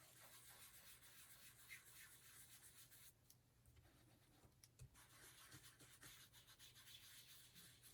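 Faint rubbing and scrubbing of an ink-loaded foam blending pad worked over a paper tag, applying Distress ink in short irregular strokes, over a low room hum.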